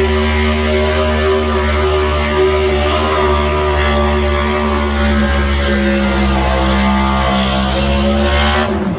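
A pro stock 4x4 pulling truck's engine held at full throttle under load during a pull, a loud, steady, high-revving note that stops abruptly near the end.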